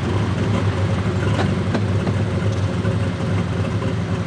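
Pulling tractor's engine running at a steady speed, with no revving.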